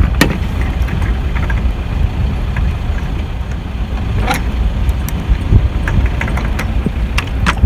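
MacGregor 65 sailboat under way: a steady low rumble with a few sharp clicks and knocks from deck hardware as a line is being tied off.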